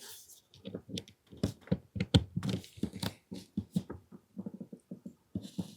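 Irregular light clicks and taps from small parts of an AAP-01 airsoft pistol being handled and fitted together during reassembly.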